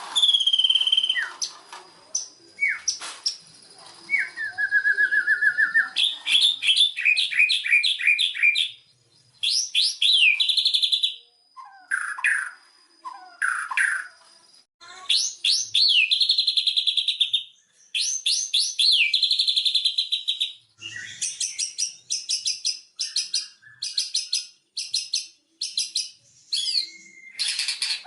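White-rumped shama singing a varied song: whistled phrases, quick rising notes and fast repeated trills, in bursts of one to three seconds with brief pauses between them.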